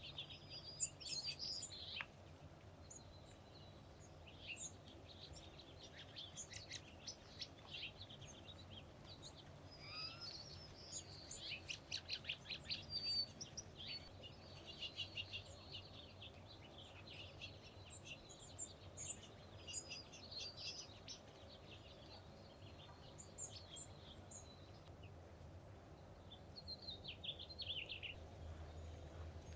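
Wild songbirds chirping and chattering in quick runs of high notes, in several bouts with short pauses between them.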